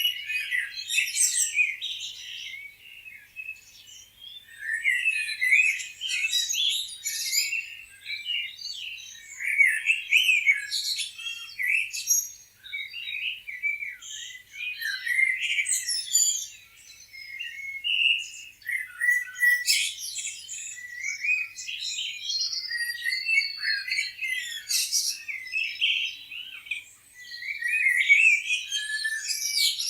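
Several small songbirds chirping and twittering together, with many quick, high calls and trills overlapping in dense clusters every few seconds.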